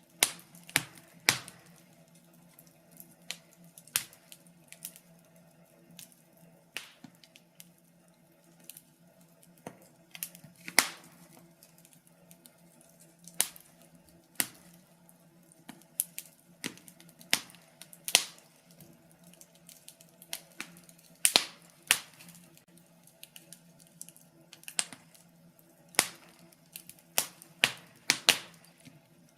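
Wood fire in a fireplace crackling: irregular sharp pops and snaps of burning logs, a few every second or two, some much louder than others, over a faint steady low hum.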